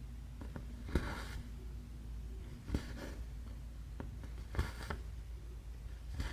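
Needle and thread being pulled through cross-stitch fabric: a small tick as the needle passes the cloth, then a short swish of thread drawn through. It repeats at a steady pace, about once every two seconds.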